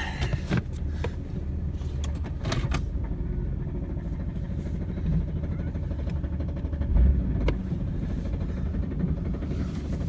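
Chevrolet Camaro V6 engine running at idle, a steady low engine note with a few sharp knocks; the engine has a bad knock in the bottom end, a sign of a failing rod bearing.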